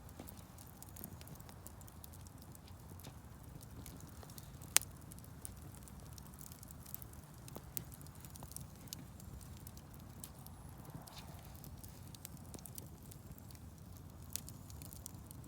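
Wood fire in a fireplace crackling, with a low steady rumble, scattered small snaps and one sharp loud pop about five seconds in.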